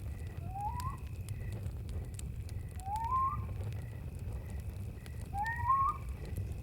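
Campfire burning with a low rumble and faint scattered crackles, under a steady high insect trill with a chirp pulsing about twice a second. Three times, roughly every two and a half seconds, a short rising whistled call sweeps up and ends on a wavering note.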